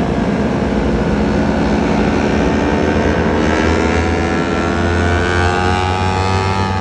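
Yamaha R25 parallel-twin motorcycle engine running under way, its pitch climbing steadily through the second half as the bike accelerates, with rushing wind noise underneath.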